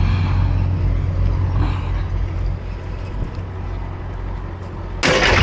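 Vehicle engine idling steadily with a low hum. A short, loud noise near the end.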